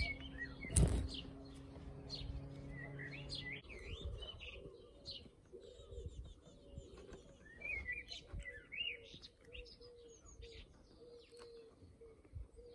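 Small birds chirping and twittering in quick, scattered calls, with one sharp knock about a second in.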